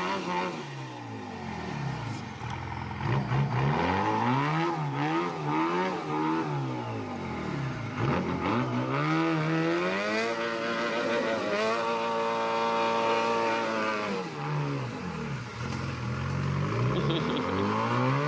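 Detroit diesel engine in an antique Dodge truck revving up and down over and over, its pitch climbing and dropping several times and held high for a few seconds in the middle.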